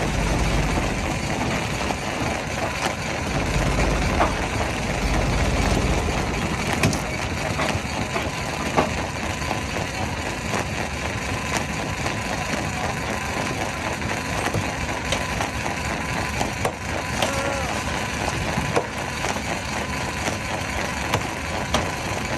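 Stone crusher breaking rock: steady grinding with many sharp cracks and snaps of stone, and a heavier low rumble during the first six seconds.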